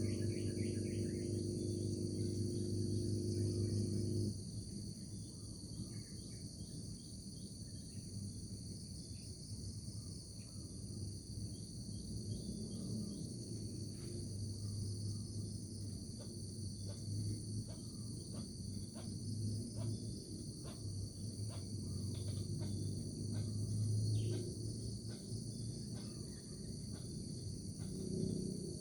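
Steady, high-pitched chorus of crickets and other insects, with scattered short chirps or ticks. A low steady tone under it cuts off about four seconds in.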